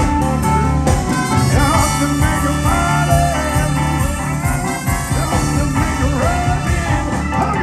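Live blues band playing an instrumental break between verses, with a lead line of bending notes over the rhythm section.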